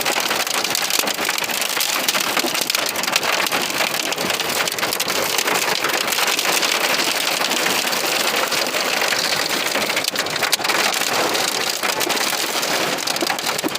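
Heavy storm rain pelting down: a steady, dense hiss of countless drops striking a surface.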